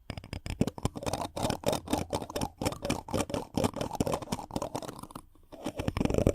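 Rapid, irregular scratchy rubbing and crackling right against a microphone: ASMR friction trigger sounds. It pauses briefly about five seconds in.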